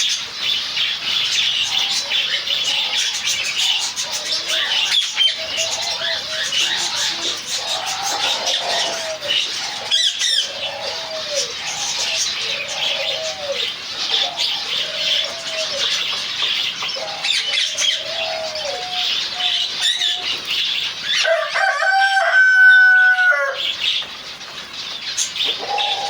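A colony of finches chirping and twittering continuously, with wing flutters and repeated lower arching calls running through. Near the end a louder, drawn-out call holds a steady pitch for about two seconds.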